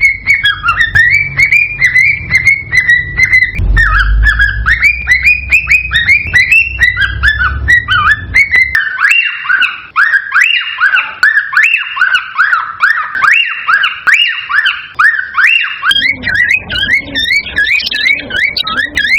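Cockatiels whistling and chirping in a fast run of short, bending notes, about three to four a second. A low rumble sits under the calls for the first half and stops partway through.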